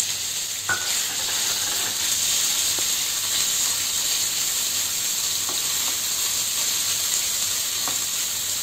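Chicken pieces frying in hot oil in a pan: a steady sizzle, with a few light taps of a wooden spatula stirring them.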